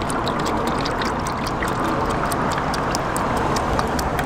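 Pressure washer spraying a shampoo pre-wash onto a car: a steady hiss of spray with a fine crackle of droplets.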